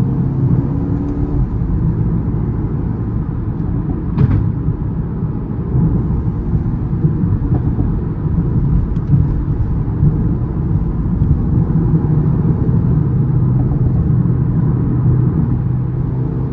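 Mercedes-AMG A35's 2.0-litre turbocharged four-cylinder engine and exhaust running at fairly steady revs while driving, with a single sharp click about four seconds in.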